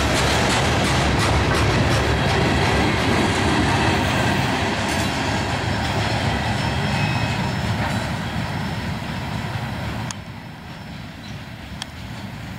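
Freight train cars rolling past, wheels running and clattering over the rails. About ten seconds in the sound drops suddenly to a quieter rolling.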